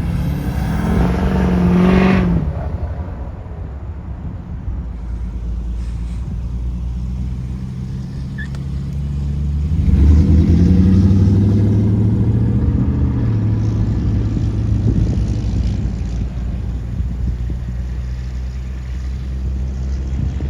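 Pickup truck engine pulling away, revving up briefly about two seconds in and again more strongly around ten seconds, with a steady low rumble between.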